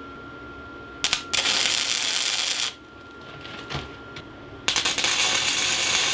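Electric arc welding tacking a guard onto a knife: two crackling, hissing welds of about a second and a half each, starting and stopping sharply.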